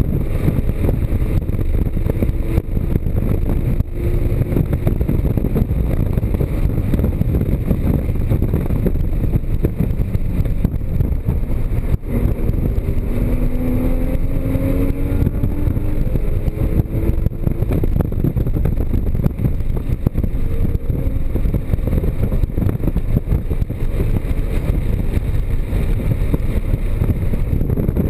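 Porsche Cayman GTS's mid-mounted flat-six engine at speed on a track lap, its pitch climbing and falling with acceleration, gear changes and braking, over a loud, steady rush of road and wind noise.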